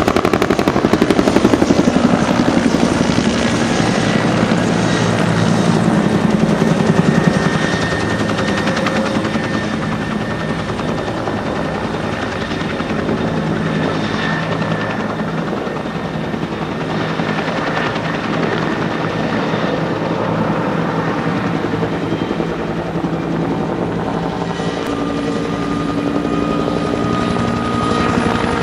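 Firefighting helicopter's rotor blades chopping rapidly over a steady turbine engine note, loudest for the first seven seconds or so and then slightly quieter as it draws away.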